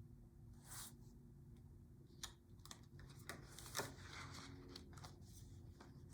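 Faint rustling and a few soft taps of picture-book pages being handled and turned.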